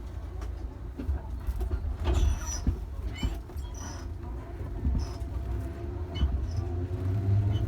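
Electric train running: a low rumble with scattered clicks and a few brief high squeaks. Near the end the traction motor's whine comes up as a set of steady tones slowly rising in pitch, as the train picks up speed.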